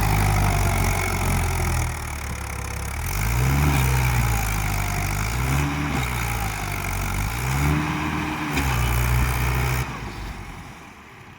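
Mahindra tractor's diesel engine working hard under load, revving up and dropping back three times as it strains to pull a trolley stuck in mud, then falling away near the end.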